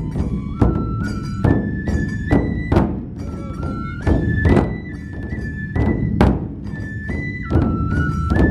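Matsue Do-gyoretsu festival music: heavy strikes on the big dō drum in an uneven pattern, under a high bamboo-flute melody that holds and steps between a few notes.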